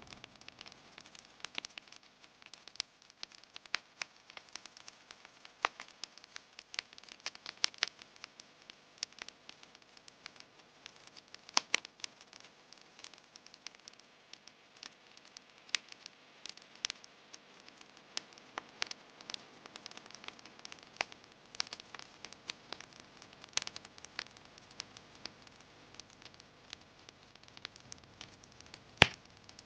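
Wood campfire crackling, with irregular sharp pops and snaps over a faint hiss and one loud pop near the end.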